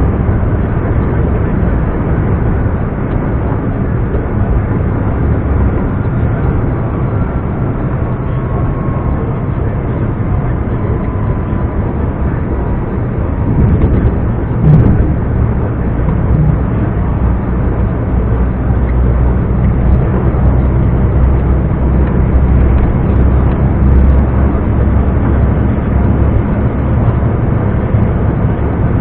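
Scania R420 truck's diesel engine running steadily on the road, a low rumble with a faint whistle in the first third. A single sharp knock sounds about halfway through.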